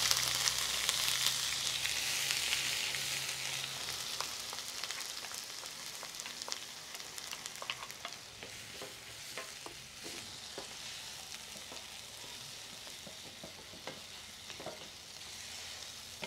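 Chopped tomato and onion frying in hot oil in a clay cazuela: a loud sizzle as they hit the oil that gradually dies down as they soften. Scattered knocks and scrapes of a wooden spoon stirring them come through.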